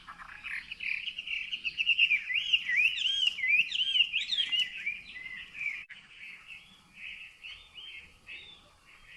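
Chinese hwamei singing: loud, varied whistled phrases that sweep up and down in pitch. The song is loudest in the middle and carries on more quietly after that.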